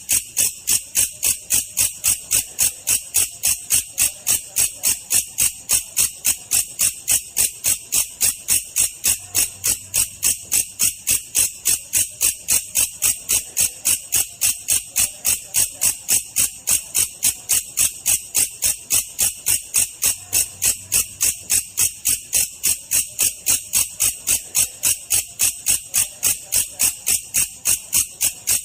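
Belalang kecek insect chirping in a slow, perfectly even rhythm of about three sharp, high-pitched chirps a second. This is bird-training song used to teach lovebirds and other songbirds.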